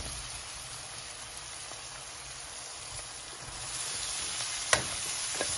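Shredded cabbage and spiced split chickpeas sizzling in a hot metal wok, a little louder past the middle, with a sharp knock near the end.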